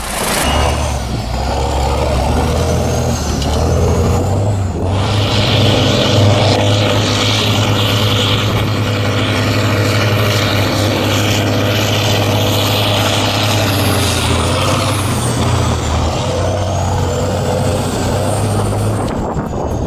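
Tractor's heavy diesel engine running steadily under load.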